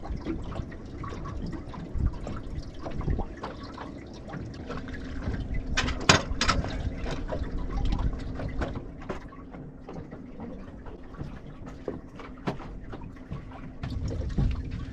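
Water splashing and trickling around a fishing boat, with a steady low hum and scattered sharp clicks, a cluster of them about six seconds in.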